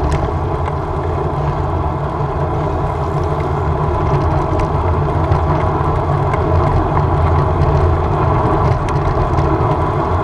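Steady low rumble of wind buffeting the microphone of a camera on a moving road bicycle, mixed with tyre and road noise.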